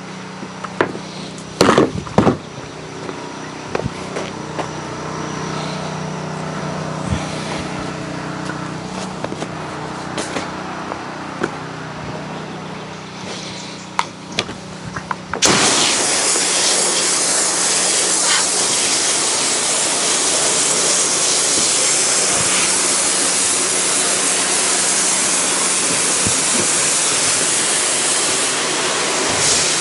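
A pressure washer's engine running steadily with a few scattered knocks and clicks. About halfway through, the spray starts suddenly: a loud steady hiss of water through the low-pressure black tip takes over and holds.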